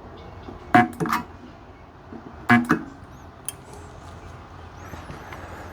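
A Sunko 709A spot welder fusing nickel strip onto 18650 battery cells. It gives two pairs of sharp snaps, one pair about a second in and another about two and a half seconds in, each snap with a short buzzing ring after it.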